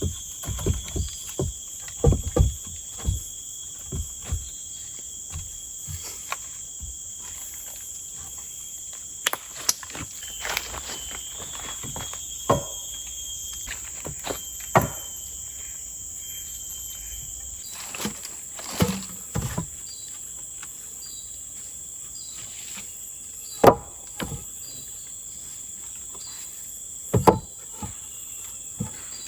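Forest insects keep up a steady high-pitched drone, with scattered short knocks and thumps over it, several a second at the start and only now and then after that.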